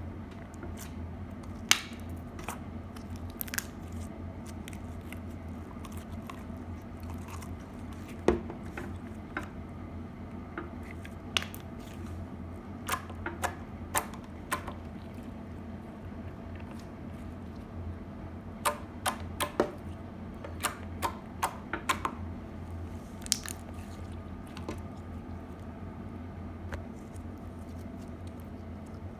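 Slime being squeezed and pressed by hand, making irregular crunchy pops and clicks that come in clusters, over a steady low hum.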